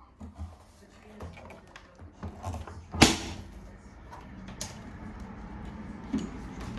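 Light clicks and taps of handling a Hoover Vision Dynamic washing machine, with a sharp knock about three seconds in, then a steady low hum with faint tones from about four seconds on.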